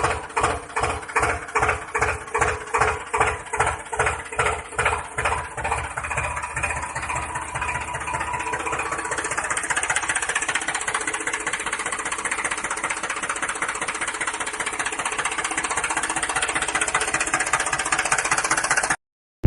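A small motor running, first with a rhythmic pulsing of about two to three beats a second that quickens until, after several seconds, it settles into a steady run; it cuts off suddenly near the end.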